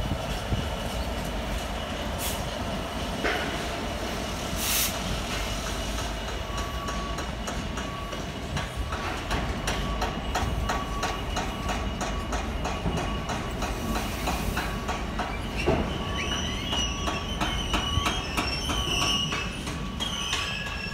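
A Class 66-hauled freight train of hopper wagons rolling past: a steady rumble with the wheels clicking rapidly on the track. High-pitched wheel squeal sets in over the last few seconds.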